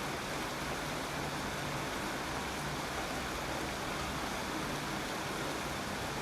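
Steady rainfall, an even hiss of drops with no breaks or single hits standing out.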